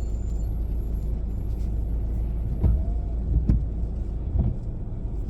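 Steady low rumble inside a car cabin, heard from a car idling while it waits at a traffic light. Three short soft thumps come in the middle.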